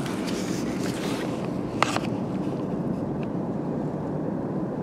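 Steady low rumble of a distant train going by. Rustling in the first couple of seconds as the camera is turned, and a single sharp click a little under two seconds in.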